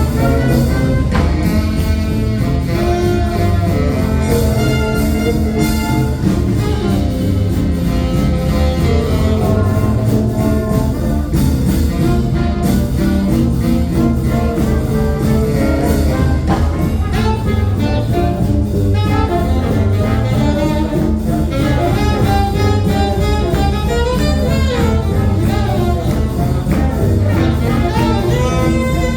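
A live jazz band playing without pause.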